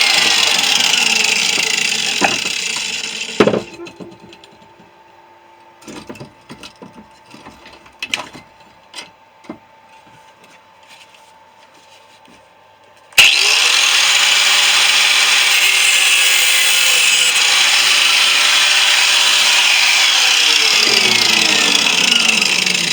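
A power cutting tool cutting into a refrigerator compressor's steel shell, then spinning down with a falling whine about three seconds in. After several seconds of quiet with a few knocks and clicks, it starts again abruptly, cuts steadily, and spins down with a falling pitch near the end.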